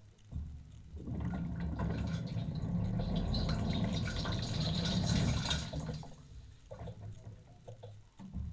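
Water spraying and splashing inside a running dishwasher, over a low pump hum. It swells about a second in and eases off after about six seconds.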